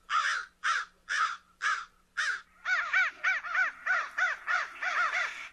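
A bird calling over and over, about twice a second at first, then faster, three or four calls a second, from about two and a half seconds in.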